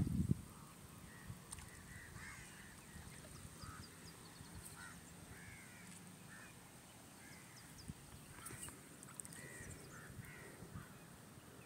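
Faint bird calls: short chirping notes repeated every second or so over quiet shore ambience.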